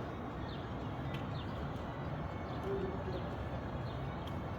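Outdoor background hiss with a small bird's short, high, falling chirps repeating about every half second, and a brief low coo-like note a little before the middle.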